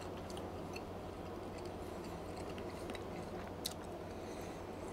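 A man chewing a bite of smoked beef tri-tip: faint, scattered mouth clicks over a steady low background hum.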